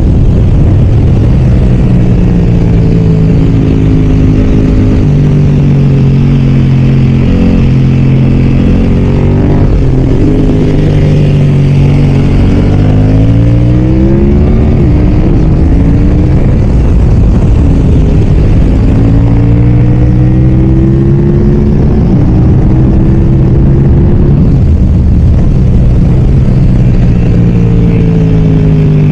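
BMW F900R's parallel-twin engine at speed on track, its pitch climbing through the revs, dropping sharply at gear changes and braking, then climbing again several times over the half-minute.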